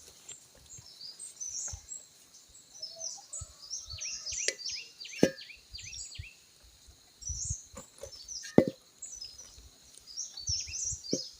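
Small birds chirping in quick, high, short notes, with a few sharp clicks or knocks among them, the loudest about five and eight and a half seconds in.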